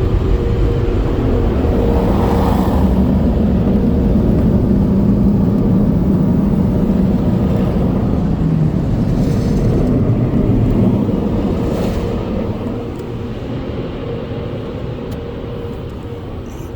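Car wash tunnel dryer blowers running with a loud, steady rush and a faint hum. The sound fades away gradually over the last few seconds as the car pulls clear of them.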